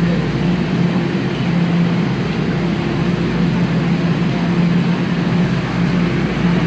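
Toronto subway train running: a steady loud rumble with a low electric hum that fades in and out.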